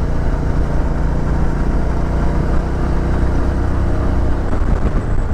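Suzuki V-Strom 650 XT's 645 cc V-twin engine running steadily while riding, under a steady rush of road and wind noise. The engine note changes briefly near the end.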